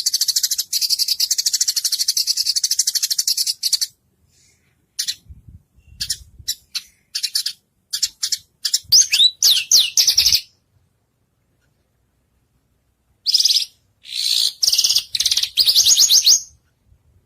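White-rumped shama (murai batu) singing. A fast trill of high repeated notes lasts about four seconds, followed by scattered chips and quick sweeping whistles. After a pause of a few seconds come more rapid trilled phrases near the end.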